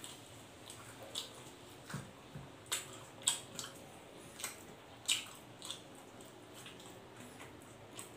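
Close-up wet mouth sounds of a person eating roast pork and rice with his hands: irregular smacks and clicks of chewing, about one or two a second.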